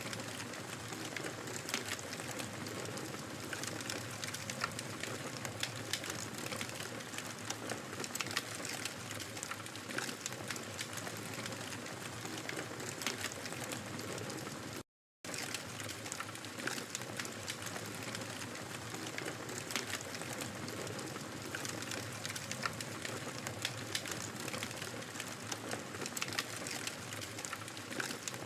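Wood fire crackling, with frequent sharp pops and snaps over a soft, steady hiss of burning. About halfway through, the sound cuts out completely for a split second.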